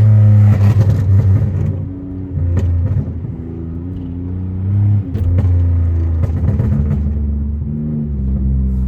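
Tuned, catless Pontiac Grand Prix GT V6 accelerating: the engine note climbs, then drops in pitch about five seconds in and again near the end as the gears change. Crackling exhaust burbles and pops come through, thickest in the first two seconds.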